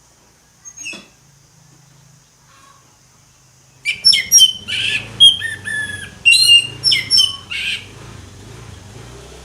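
Orange-headed thrush singing: a short call about a second in, then from about four seconds a loud run of quick, varied, clear notes that lasts about four seconds.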